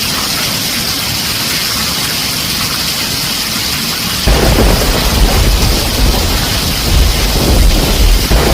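Heavy rain falling on a tin roof as a steady hiss; about halfway through, a deep, loud thunder rumble comes in suddenly and carries on.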